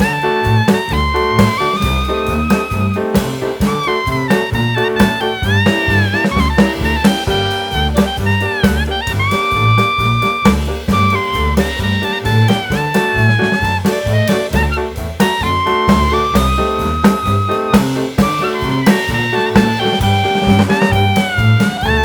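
A live band playing on stage, with a shrill lead melody of long, bending held notes over a steady drum and bass beat.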